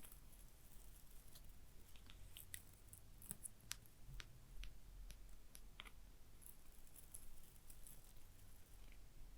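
Soft, irregular fingernail taps on a small object, about a dozen quick clicks bunched in the middle, with faint light scratching near the start and again later on. Everything is very quiet over a low steady hum.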